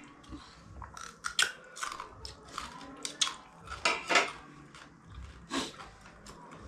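Close-up crunching and chewing as someone bites into raw salad, a run of irregular crisp crunches with the loudest bites about four seconds in.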